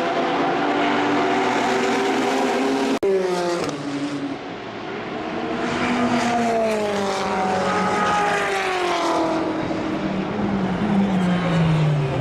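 Racing car engines at high revs: a steady engine note that breaks off suddenly about three seconds in, then a car accelerating with its pitch rising, and the pitch dropping again near the end.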